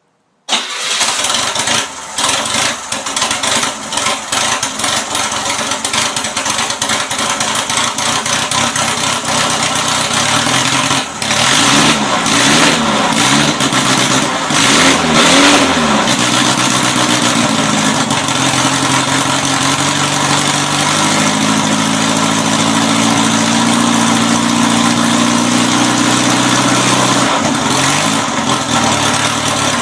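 Air-cooled VW 1600cc flat-four engine on a test stand starting up abruptly about half a second in and running unevenly, not yet fully tuned. It is then revved up and down a few times, held at a higher speed for several seconds, and dropped back and revved again near the end.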